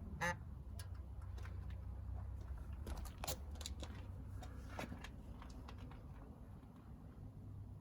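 Irregular clicks and crackles, with a short squeak near the start, from the hot cooling system of a 2003 Chrysler Sebring's 2.7 V6 after the engine has been switched off, over a low steady hum.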